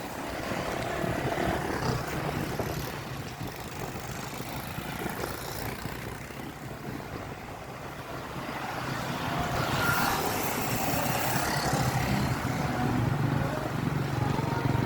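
Vehicle engine running steadily amid road noise, with wind on the microphone; it grows louder about eight seconds in.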